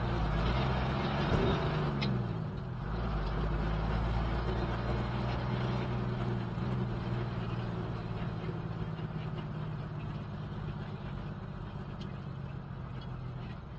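Old BMC truck's engine running while under way. Its note shifts in pitch about a second in, then holds steady.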